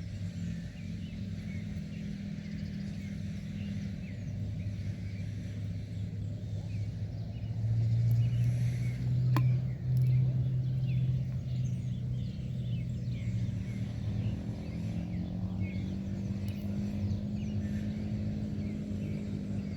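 A motor engine running at a steady pitch, growing louder around the middle and easing slightly upward in pitch later, with faint bird chirps over it.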